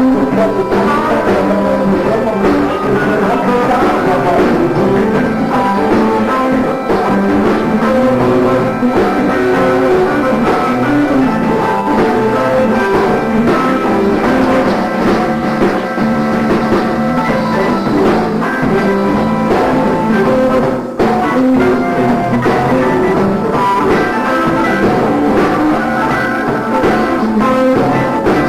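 Live band playing a funk and soul jam, loud and steady, with a brief drop about two-thirds of the way through.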